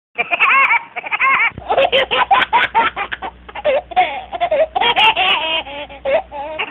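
Laughter sound effects, one clip after another. First comes a short giggle of quick notes that rise and fall in pitch. From about a second and a half in, a second clip follows: a longer run of rapid, choppy laughing over a steady low hum.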